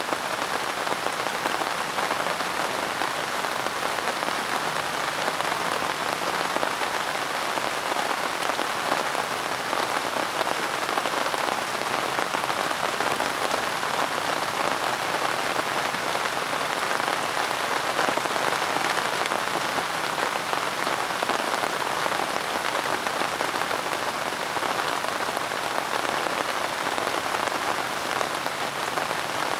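Steady rain falling on a surface: an even hiss with dense, fine patter that keeps the same level throughout.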